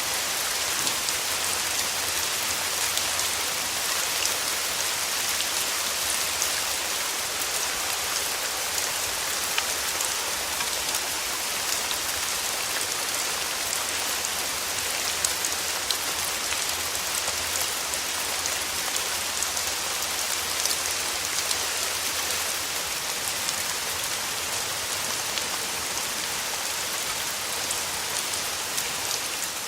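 Steady rain falling, an even hiss of many small drops pattering on surfaces.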